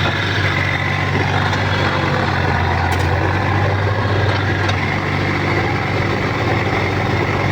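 Heavy diesel engine running steadily at an even speed, a low, unchanging drone with no revving.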